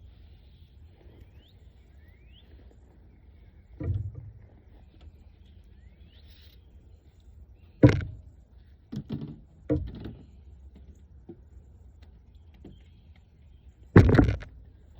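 A few separate thumps and knocks over a quiet background: one about 4 seconds in, a sharp one near 8 seconds followed by two more close behind, and a loud double knock near the end. Faint rising chirps sound early on.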